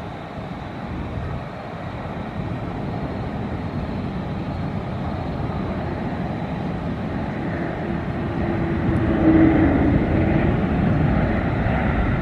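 Jet airliner passing, its engine rumble building steadily to a peak about nine seconds in, with a whine near the loudest point, then easing slightly.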